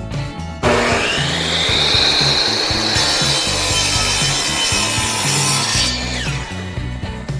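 Electric power saw starting up with a rising whine and cutting through a wooden board, then winding down with a falling whine near the end.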